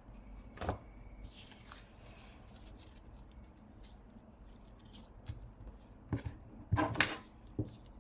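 Paper rustling and crinkling with scattered light taps and clicks as paper labels are handled and put onto jars. The loudest is a short crisp rustle about seven seconds in.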